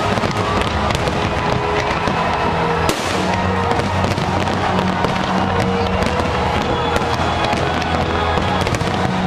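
Fireworks display: rapid crackling and popping bangs over music with a steady bass line.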